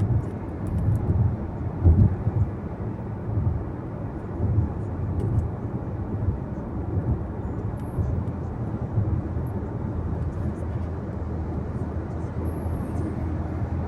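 A car being driven, heard from inside the cabin: steady low road and tyre rumble, with a few louder bumps in the first few seconds.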